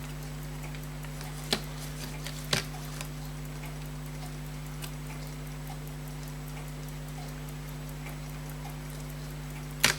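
Elgin pocket watch ticking faintly and quickly over a steady low electrical hum. A few sharp clicks of small tools on the bench, the loudest near the end.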